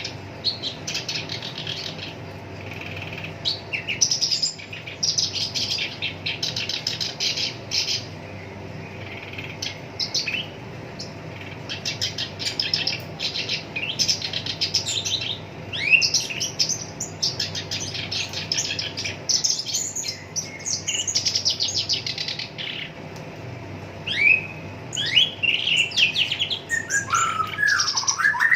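Black-browed reed warbler singing: long bursts of fast, harsh rattling trills broken by short gaps, with sweeping whistled notes near the end. A faint steady low hum runs underneath.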